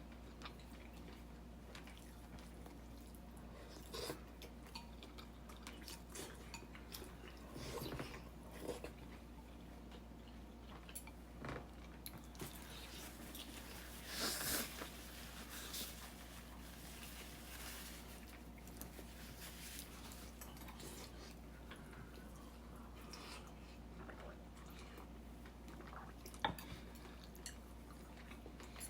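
Faint clinks of cutlery on dishes and occasional chewing as people eat, over a steady low hum. A brief, louder noise comes about halfway through.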